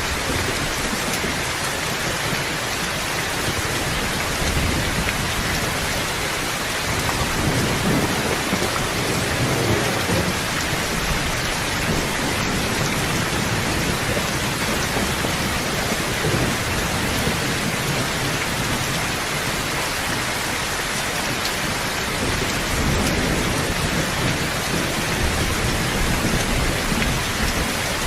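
Steady heavy rain, with low rumbles of thunder rolling in several times.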